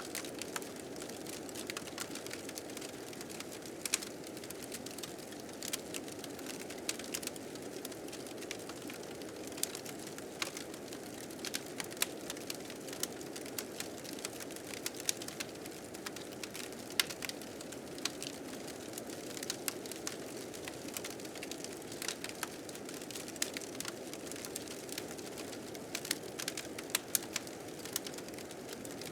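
Wood fire crackling with frequent sharp pops, over the steady rushing of blizzard wind.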